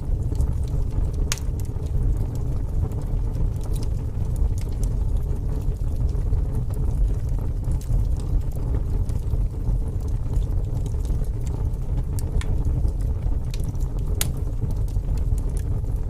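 Open fire burning in a fireplace: a steady low rumble of flames with scattered sharp crackles and pops, the loudest pop near the end.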